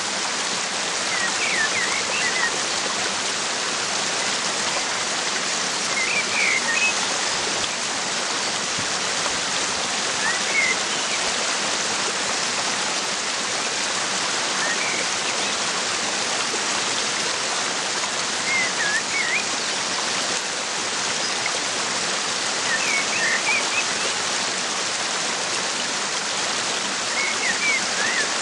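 Waterfall rushing steadily, with a bird chirping in short phrases of a few quick notes about every four to five seconds.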